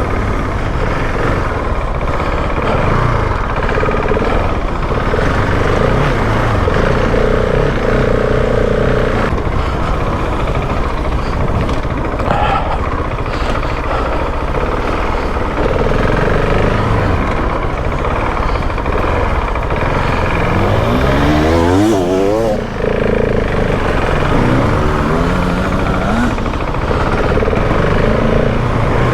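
Husqvarna 701 Enduro's single-cylinder engine running hard on a dirt track, its revs rising and falling as the rider accelerates, shifts and rolls off. There is a quick burst of climbing and dropping revs about two-thirds of the way through.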